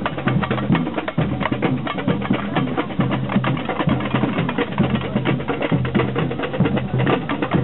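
A procession marching band playing: fast drum strokes over steady low sustained notes.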